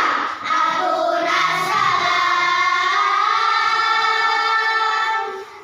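Choir singing with high, child-like voices, ending the phrase on one long held chord that dies away near the end.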